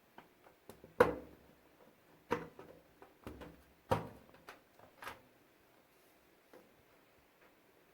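A series of irregular knocks and clunks, about half a dozen, the loudest about a second in and about four seconds in.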